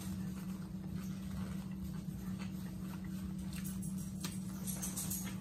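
Close-up chewing and mouth sounds of people eating fried catfish and bread with their hands, with scattered small clicks and smacks, over a steady low hum.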